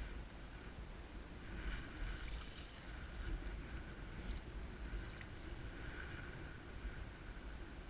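Wind buffeting the microphone over choppy water around a kayak: a steady, gusting low rumble with a faint hiss.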